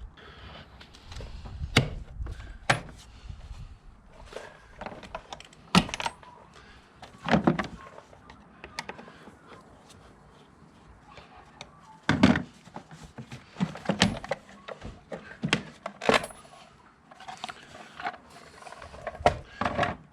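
Irregular clicks, clunks and light rattles of plastic and metal parts being handled as a car's engine-bay airbox is unclipped and pulled out, with a few sharper knocks among them.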